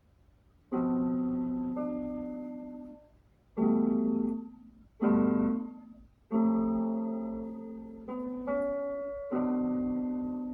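Piano chords played slowly, starting a little under a second in: each chord is struck, held and left to fade before the next, about eight chords in all.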